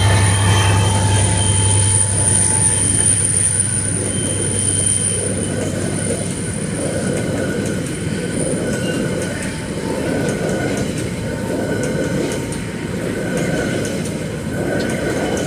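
Freight train's hopper wagons rolling past at close range: a steady rumble of steel wheels on rail with a high-pitched wheel squeal, which fades about halfway through, and a lower squeal coming and going toward the end.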